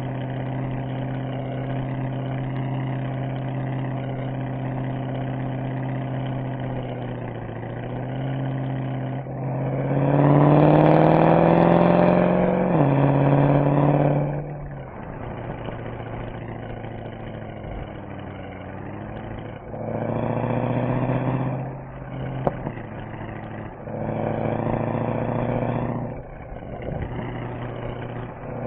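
Mercedes-AMG SL63's V8 engine and exhaust on the move: steady cruising at first, then about nine seconds in a hard acceleration with the pitch climbing and dropping at a gear change, followed by quieter running and several shorter bursts of throttle.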